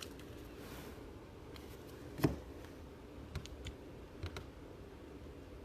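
Faint, scattered clicks and taps of trading cards being handled, with one sharper tap a little over two seconds in, over a low room hum.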